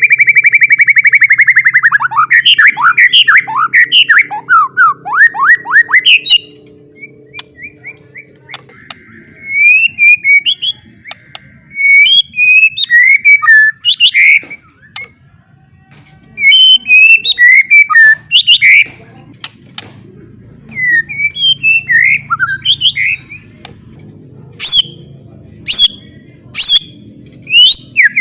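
White-rumped shama giving its harsh 'kretekan' rattle call, the provoking call used to make rival shamas agitated. It opens with a fast buzzy rattle, then breaks into short chirps and whistled notes with pauses, and ends with a few sharp clicks.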